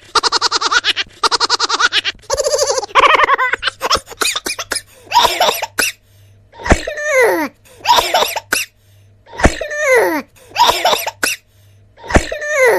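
Cartoon laughter sound effects: a rapid, pulsing laugh for about the first two seconds, then a string of short voiced calls, each falling in pitch, about one every second or so.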